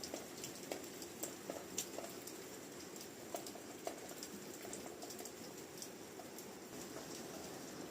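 Wood fire crackling in a fireplace: irregular sharp pops and snaps over a steady low rush of burning.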